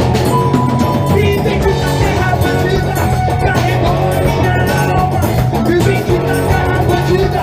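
Live rock band playing an instrumental passage: drum kit, bass, electric guitar and keyboard together at full volume.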